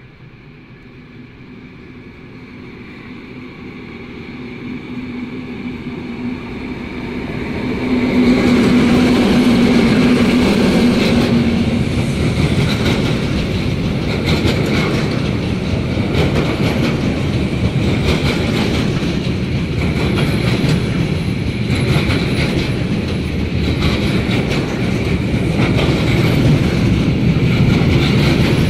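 A train approaching and passing close by. It grows from faint to loud over about eight seconds, with a steady hum loudest as the front passes. The wheels then clatter over the rail joints as the cars roll by.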